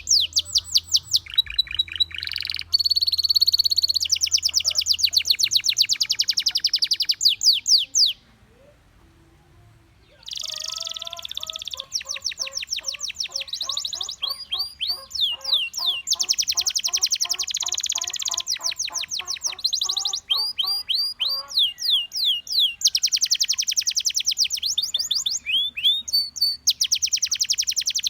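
Gloster canary singing: long runs of rapid, evenly repeated trilled notes that change from one tour to the next. It breaks off for about two seconds near the eight-second mark; after that, a lower line of repeated notes runs beneath the high trills for about ten seconds.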